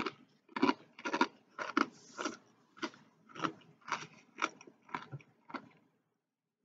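A person chewing food close to the microphone, with wet, crunchy chews about two a second that stop near the end.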